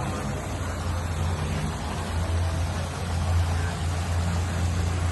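Steady low hum under a constant rushing noise, the running water and machinery sound of a koi pond.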